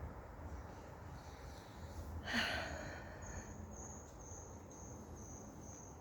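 A cricket chirping faintly in an even high pulse, about twice a second, from about three seconds in. It follows a short breathy puff a little over two seconds in.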